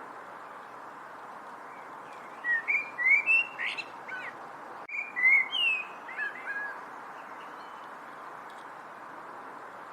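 A songbird singing two short bursts of quick, slurred whistled notes, the first a few seconds in and the second just after, over a steady background hiss.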